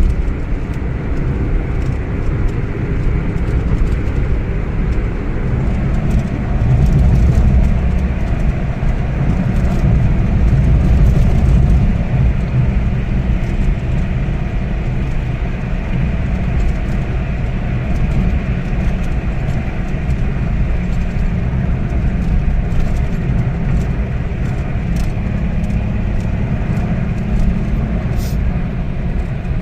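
Toyota Wigo's three-cylinder engine and road noise while driving at speed, a steady low rumble. The engine pulls toward 120 km/h without misfiring now that the faulty ignition coil has been replaced.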